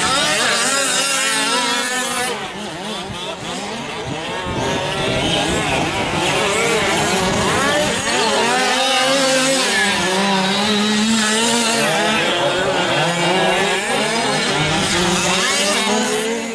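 Several 1/5-scale gas RC trucks' small two-stroke engines running together at race speed, their pitches rising and falling as they rev up and back off.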